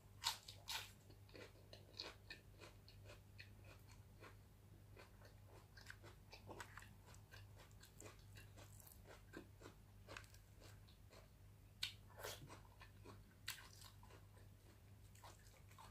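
A person quietly chewing a mouthful of food, a stream of small wet mouth clicks, with a few louder ones about twelve and thirteen and a half seconds in.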